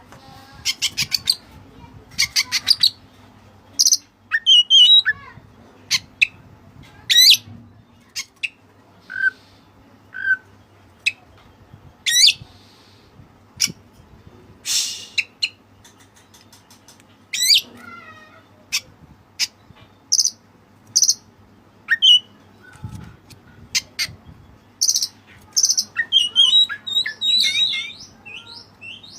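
Oriental magpie-robin (white-breasted kacer) singing a varied song in bursts: sharp chirps, quick whistled slides and rapid clicking notes, with a busy run of notes near the end.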